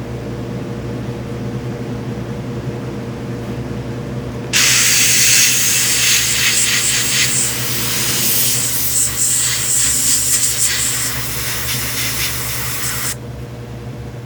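Small airbrush compressor running with a steady hum. About four and a half seconds in, the airbrush starts spraying paint with a hiss of air, which stops about a second before the end.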